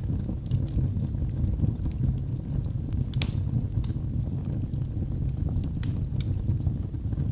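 Wood fire burning in a fireplace: a steady low rumble of flames with scattered sharp crackles and pops, one louder pop about three seconds in.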